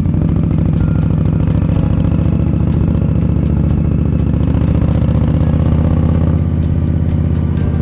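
Indian Scout motorcycle's V-twin engine running steadily while cruising.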